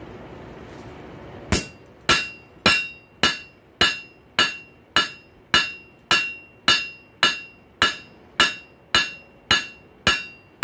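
Hand hammer striking a hot rail spike on an anvil in a steady rhythm, about two blows a second, each with a short metallic ring, as the steel is drawn out flat. The blows start about a second and a half in, after a steady rushing noise.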